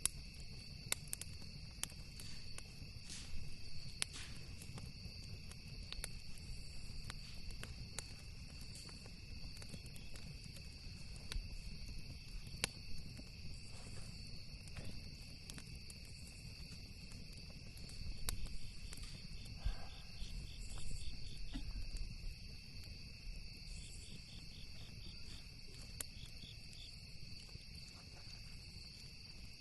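Campfire crackling with scattered sharp pops over a steady high drone of crickets and other insects. Pulsed cricket chirping joins in during the second half, above a low steady rumble.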